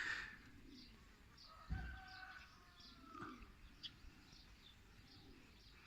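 Faint birdsong: short high chirps repeated about twice a second, with a brief warbled phrase near the middle and a single soft thump just under two seconds in.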